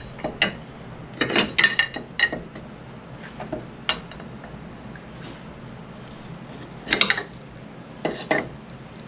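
Steel pry bar clinking and scraping against a motorcycle front brake caliper in irregular clusters, levering at pistons that are frozen and won't retract.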